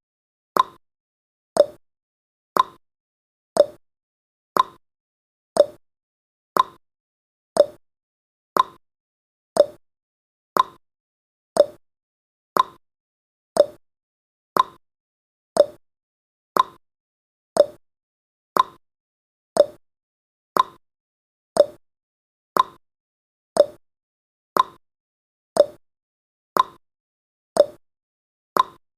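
Countdown timer's clock-tick sound effect: short sharp ticks, about one a second, marking each second counted down.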